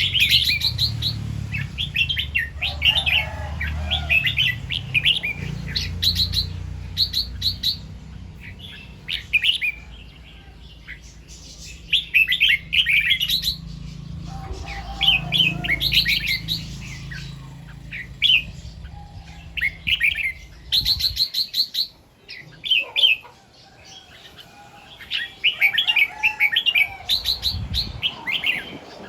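Red-whiskered bulbul singing short whistled phrases again and again, often two or three in quick succession. A low rumble underneath stops about two-thirds of the way through.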